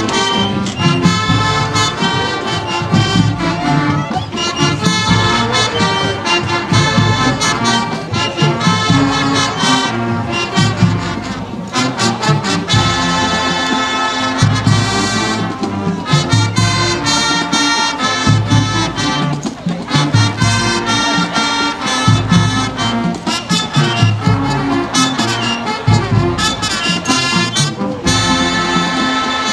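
High school marching band playing, led by loud brass with drums underneath, the music dipping briefly twice between phrases.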